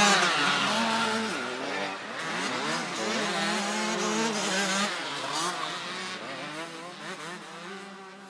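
Several motocross bikes running and revving at once, their engine pitches rising and falling over one another, fading out near the end.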